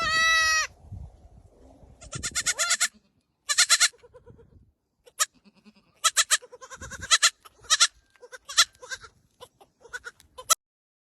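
Small goats bleating: one long, loud, high bleat at the start, then a string of short, quavering bleats that stop about ten and a half seconds in.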